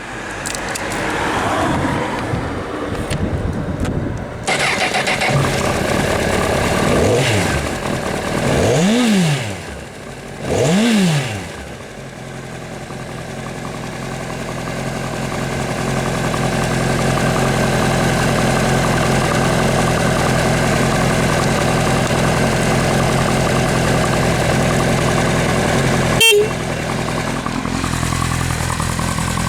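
Honda CBR1000RR inline-four with an aftermarket exhaust, catching about four seconds in, revved in three short blips that rise and fall, then idling steadily. One sharp click near the end.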